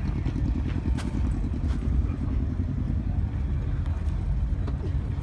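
A vehicle engine idling nearby: a steady low rumble with a quick, even pulse.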